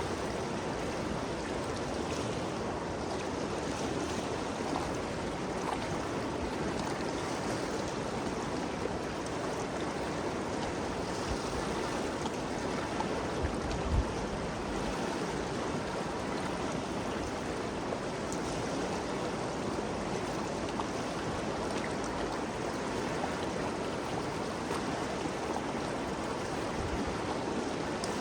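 Ganges River flowing, a steady even rush of water. A brief low thump about halfway through.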